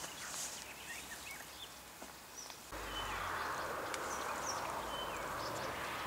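Small birds chirping now and then over quiet outdoor background noise; a little under three seconds in, a steady hiss with a low hum starts abruptly and carries on.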